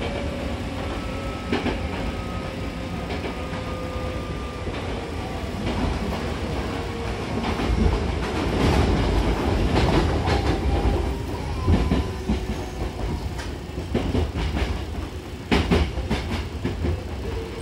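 Hankyu 6000 series train running, heard from inside the car by the doors: a steady rumble of wheels on the rails with clickety-clack from the rail joints. A faint motor whine drops slowly in pitch over the first few seconds, the rumble grows louder in the middle, and sharper clacks come near the end.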